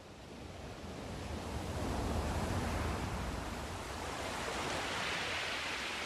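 Sea surf: a wave swells and breaks with a low rumble about two seconds in, followed by a higher hiss of water washing in near the end.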